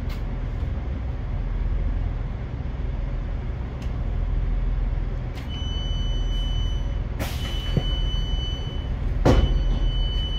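Low steady rumble of a stopped diesel passenger train, with a high electronic warning tone sounding in three long beeps from about halfway in as the doors are released, and two sharp clunks as the doors work.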